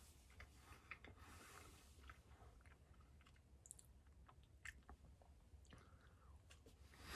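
Faint chewing of a soft fig bar, with scattered small mouth clicks.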